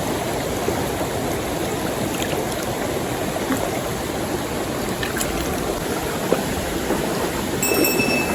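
Water of a small stream flowing steadily over its bed.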